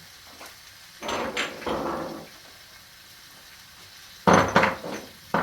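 Kitchen clatter as items are handled: a rattling scrape about a second in, then sharp knocks about four seconds in and again near the end.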